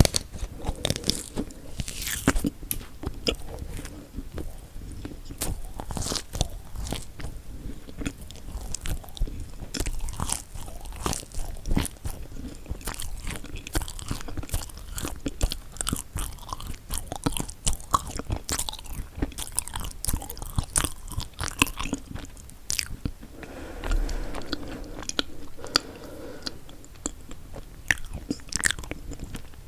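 Close-miked biting and chewing of chocolate-coated marshmallow cookies, with many small crisp crunches and clicks, softer and moister for a few seconds near the end.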